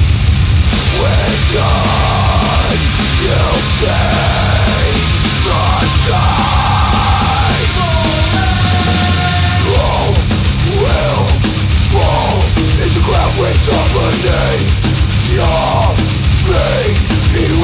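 Heavy metal band playing loud, with harsh yelled vocals over a dense, heavy low end.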